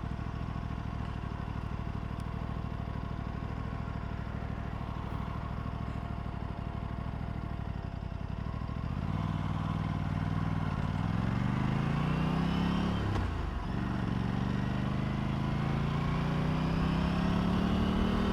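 Aprilia RS 457's parallel-twin engine running at low, steady revs, then revving up about halfway through. The revs drop sharply once, as at a gear change, and climb again near the end.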